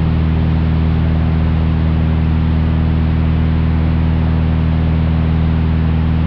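Cessna 172's six-cylinder Continental O-300 piston engine and propeller droning steadily in flight, an even, unchanging hum.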